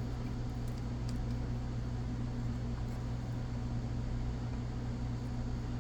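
Steady low hum with an even hiss: room background noise from a fan or similar running appliance.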